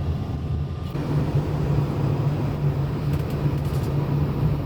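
Taxi engine and road noise heard from inside the moving car, a steady low hum that rises in pitch and grows louder about a second in.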